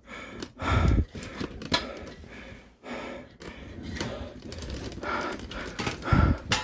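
Handling noise from a camera being set up and adjusted: irregular clicks, knocks and rustling, with two dull bumps, one about a second in and one near the end.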